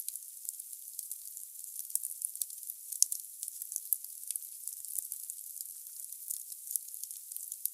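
Wood fire crackling in a fireplace: many irregular sharp pops and snaps over a steady hiss. The sound is thin and high, with nothing deep in it.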